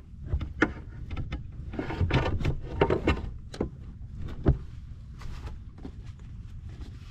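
Irregular knocks, clicks and scrapes of gear being handled aboard a fishing kayak, thickest in the middle with a sharp knock about four and a half seconds in, over a low wind rumble on the microphone.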